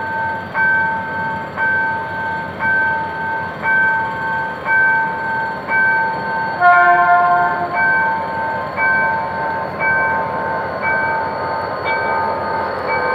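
Level crossing warning bell ringing about once a second while a GM GT-22 CW-2 diesel locomotive pulls a passenger train past. About seven seconds in, the locomotive gives one short chord blast on its horn as a greeting. The train's running noise grows louder toward the end as the locomotive passes close.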